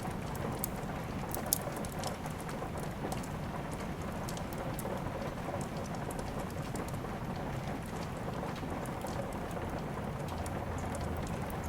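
Steady rain falling, with scattered sharp clicks and pops from a crackling wood fire, one louder pop about a second and a half in.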